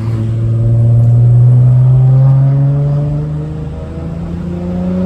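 Straight-piped V6 exhaust of a manual Honda Accord, accelerating with its note climbing slowly in pitch. It eases off briefly about three and a half seconds in, then carries on pulling at a higher pitch.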